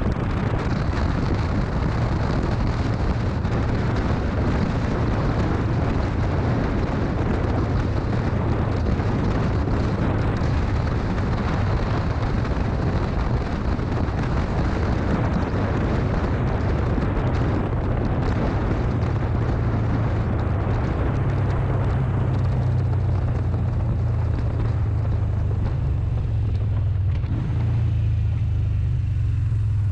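A motorcycle being ridden: the engine runs under a heavy rush of wind on the microphone. Near the end the wind noise falls away and leaves mostly the engine's low rumble, as the bike slows.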